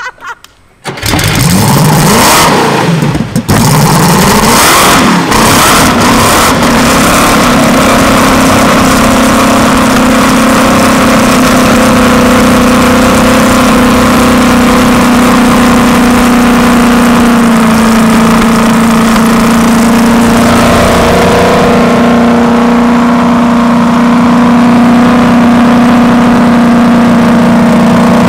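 The Mercedes-Benz 300 SLR Uhlenhaut Coupé's 3.0-litre fuel-injected straight-eight starts about a second in, fires unevenly with a few revs for the first several seconds, then settles to a steady, loud idle through its 8-into-2 exhaust with its barely effective silencer.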